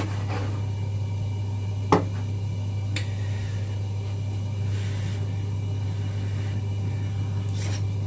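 Steady low hum throughout, with a couple of light clicks about two and three seconds in and a short hiss about five seconds in.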